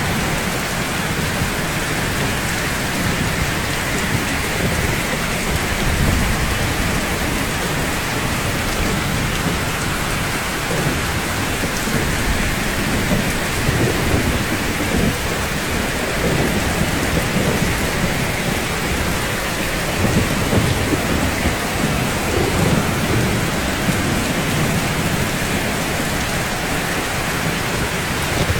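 Steady rain falling on rooftops, an even hiss, with a low rumble that swells and fades beneath it like distant thunder.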